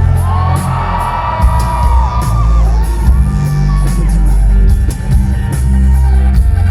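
Live band playing a rock song, with a sung vocal melody over heavy bass and drums, and shouts from the crowd.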